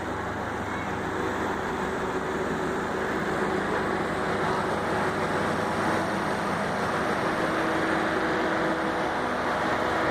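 Passenger train moving along a station platform: a steady rumble with a low steady drone, growing slightly louder.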